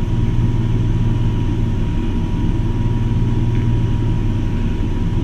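Steady low mechanical hum with a faint high whine held at one pitch, unchanging throughout.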